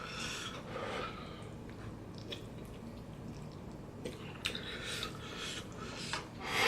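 Person chewing spicy instant noodles, with a few soft mouth clicks and smacks.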